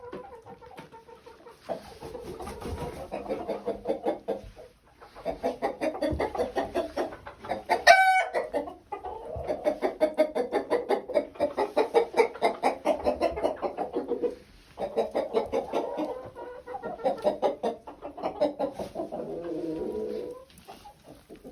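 A flock of chickens clucking in rapid, continuous chatter, in several long stretches with short pauses between them, and one loud, brief high call from a bird about eight seconds in.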